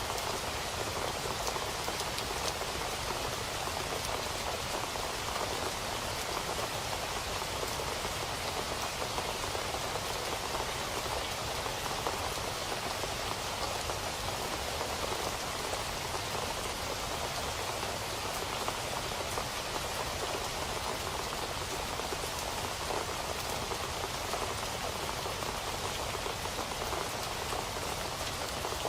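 Steady rain falling and pattering on a surface, an even hiss of many fine drops with no let-up.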